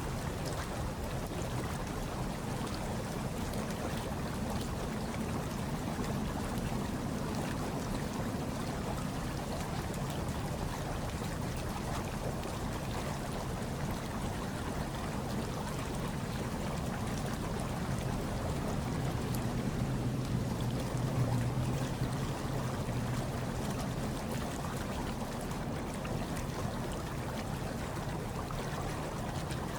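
Hot tub water bubbling and churning steadily, with a low rumble underneath that swells slightly about twenty seconds in.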